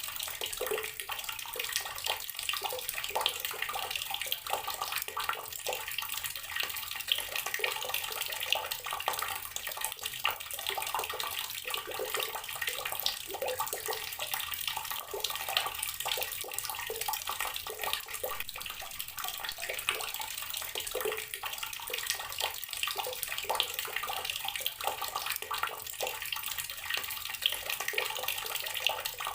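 Outdoor water tap running steadily, its stream splashing continuously.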